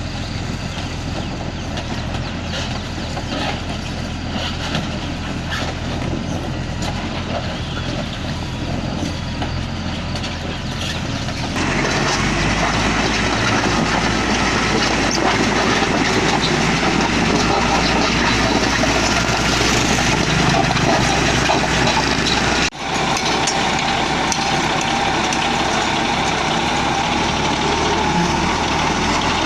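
Diesel engine of a Hino concrete mixer truck running steadily with a low hum. It gets louder and fuller about a third of the way in, and cuts out momentarily about three quarters of the way through.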